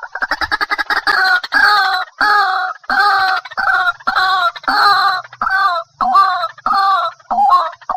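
White-breasted waterhen calling loudly: a fast run of short notes in the first second, then a repeated croaking call, about two a second.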